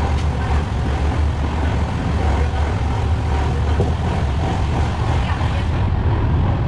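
Running noise of a moving passenger train heard inside a sleeper coach: a steady low rumble with a hiss of wheels and rails.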